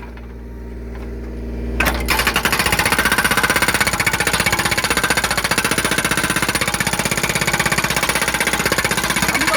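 Hydraulic breaker on a Kubota U35S mini excavator hammering rapidly against a log to split it for firewood. For the first two seconds only the excavator's engine hum is heard, then the rapid hammering starts and keeps going.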